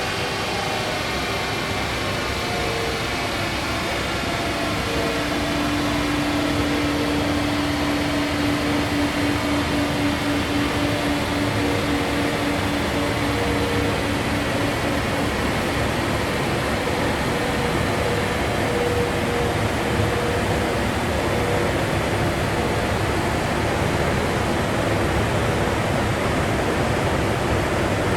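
Dyno cell's cooling fan blowing a steady rush of air, with a faint steady hum coming and going through it.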